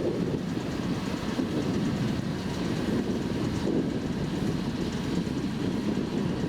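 Massey Ferguson MF5700S tractor's 4-cylinder, 4.4-litre turbocharged diesel running as the tractor works, a steady rumble with rattle.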